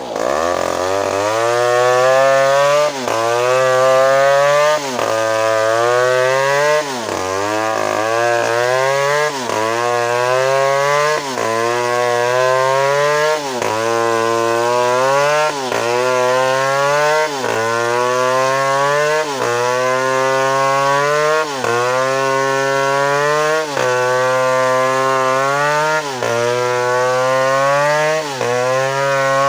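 Chainsaw engine running hard, its pitch climbing and then dropping sharply in a steady cycle a little more than once a second.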